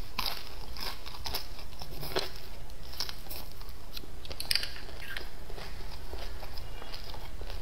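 A person biting into and chewing a small whole fried crucian carp, its crisp skin and bones crunching in many short, irregular crackles.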